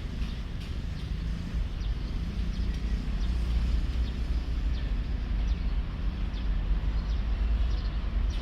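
Steady low rumble of a passenger train, with faint scattered high ticks or squeaks over it, growing slightly louder about three seconds in.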